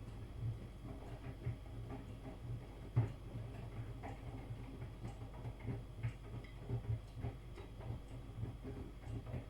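Miele washing machine in the wash cycle: the drum turns with irregular soft knocks and clicks of wet laundry tumbling, over the low, pulsing hum of its universal motor.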